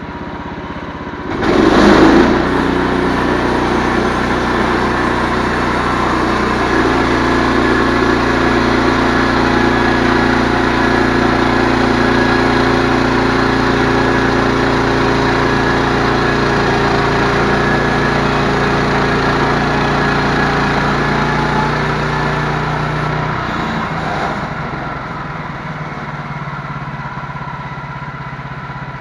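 An engine idling, then throttled up sharply about a second and a half in and held at high, steady revs for about twenty seconds before dropping back to idle near the end.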